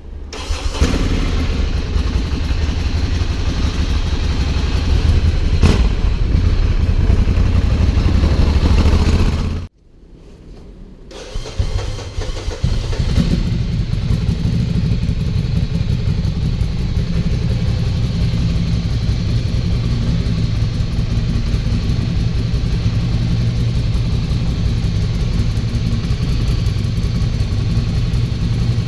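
Ducati Hypermotard 796's air-cooled L-twin running through an Arrow aftermarket exhaust. The sound cuts off abruptly about ten seconds in, then the engine starts and settles into a steady idle.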